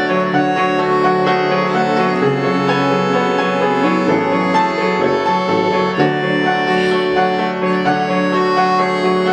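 A band playing live: dense music of long held notes at a steady, loud level, with no pauses.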